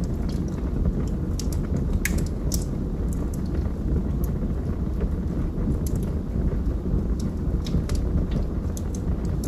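Wood fire burning in a fireplace: a steady low rumble of flames with irregular sharp crackles and pops from the logs, a louder pop about two seconds in.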